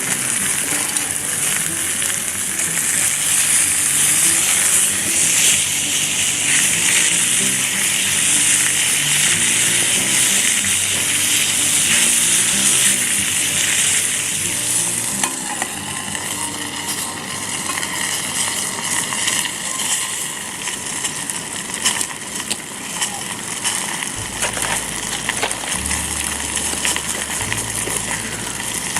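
Chicken sizzling as it fries in a pan: a dense, steady hiss that eases after about fifteen seconds, followed by scattered pops. Soft background music with a bass line runs underneath.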